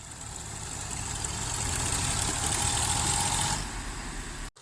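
Tractor diesel engine running with a steady low beat, with a high hiss and a faint whine over it that grow louder in the middle and then ease off. The sound breaks off sharply for a moment near the end.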